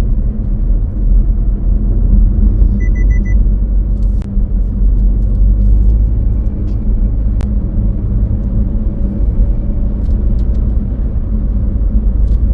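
Steady low rumble of a car driving along a road. About three seconds in there is a quick run of four short high beeps.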